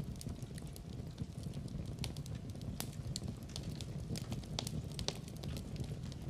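Wood fire burning in a fireplace: a steady low rumble of flame with irregular sharp crackles and pops throughout, a few louder pops in the middle.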